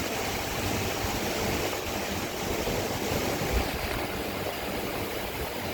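Heavy rain pouring down steadily in a thunderstorm, with a brief low thump about three and a half seconds in.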